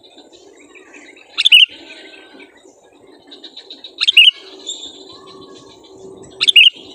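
Sooty-headed bulbul (kutilang) calling: three short, loud phrases of quick notes, about two and a half seconds apart.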